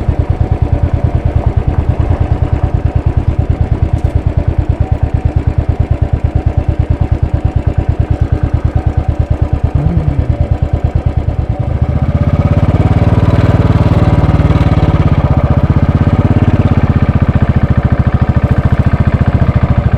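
Royal Enfield Bullet 500's single-cylinder four-stroke engine running with an even beat of firing pulses; about twelve seconds in it grows louder and fuller, as with more throttle.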